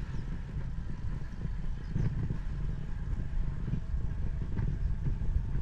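Wind and road noise of a moving bicycle picked up by a bike-mounted 360 camera: a steady, unsettled low rumble.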